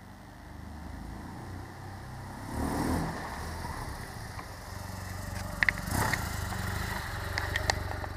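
Motorcycle engine running, growing gradually louder, with a few sharp clicks in the second half.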